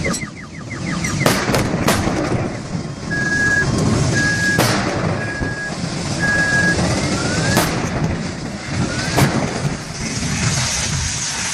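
A burning car: sharp bangs and cracks at irregular intervals, a second or more apart, over a steady low rumble. A car alarm's warble dies away at the start, and four short, evenly spaced beeps sound in the middle.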